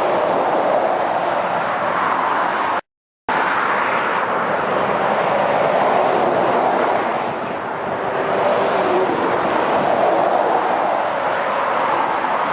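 Steady road traffic noise of lorries and cars passing on a busy main road: a continuous rush of tyre and engine noise that eases briefly around seven seconds in and builds again. The sound cuts out completely for about half a second near three seconds in.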